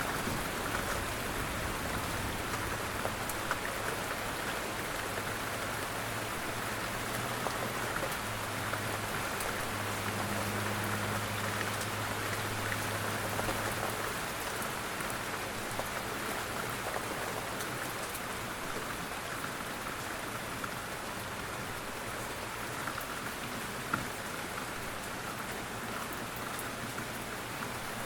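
Steady rain falling on a surface, with fine ticks of single drops through the hiss. A faint low hum runs underneath for about the first half and then fades away.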